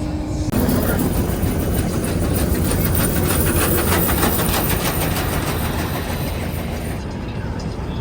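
Car road noise: a rough, clattering rumble from the tyres over an uneven road surface starts suddenly about half a second in and eases off near the end.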